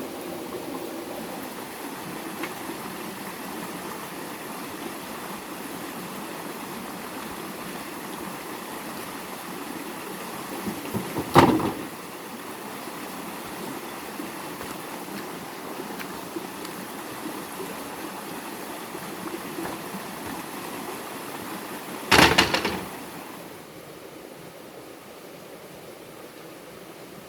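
Steady rushing of flowing water, broken by two loud sharp knocks: one about 11 seconds in, and a short cluster about 22 seconds in.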